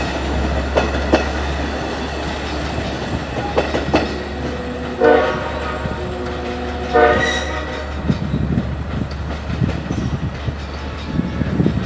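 Long Island Rail Road commuter trains: wheels rolling and clacking over the rails, with two short train horn blasts about five and seven seconds in. A low wheel rumble builds near the end as a train approaches.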